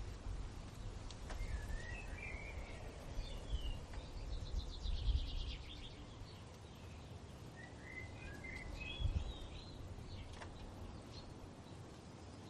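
Songbirds singing in short warbling phrases, with a fast trill of repeated notes about four seconds in, over a low, uneven wind rumble.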